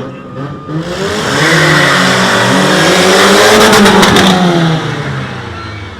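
The twin-engined Opel Doppel stunt car's two engines revving hard, showing off their combined power: the engine note climbs steeply from about a second in, holds loud and high, then falls away near the end.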